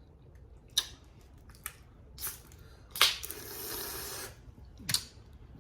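Close-miked table sounds: a few small sharp clicks and cracks, then a louder snap about three seconds in, followed by about a second of rushing, hiss-like noise, and one more click near the end.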